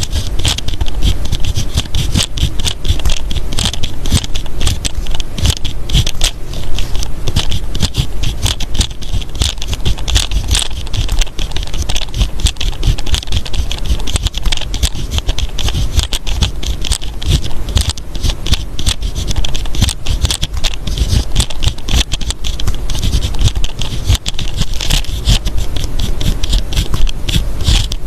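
Close-miked writing on paper: a continuous run of quick scratchy strokes and small ticks.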